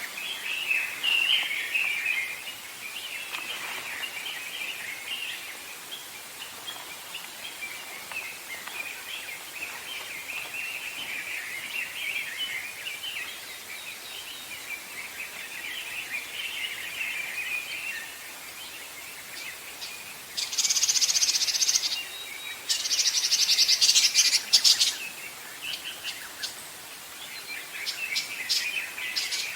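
Songbirds singing in a forest: a continuous chorus of twittering, broken about two-thirds of the way through by two loud, very high, rapid trills of a couple of seconds each.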